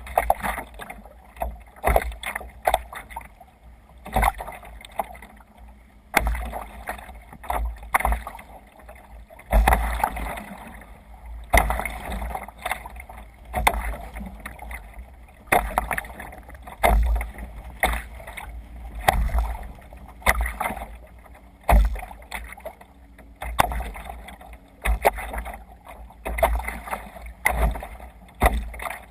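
Water splashing and slapping against a sea kayak moving through waves, in irregular surges every second or two with low thumps.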